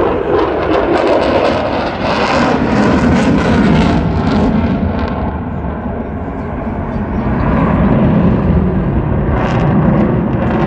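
Su-57 fighter jet's twin engines roaring in flight, a loud rushing noise that swells about two to four seconds in, eases, and swells again near the end, crackling at its loudest.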